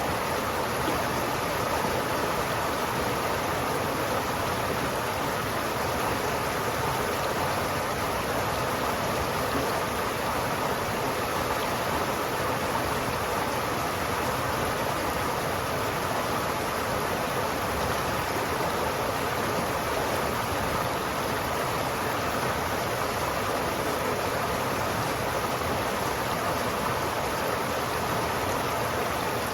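River water flowing continuously, a steady, even sound that does not change.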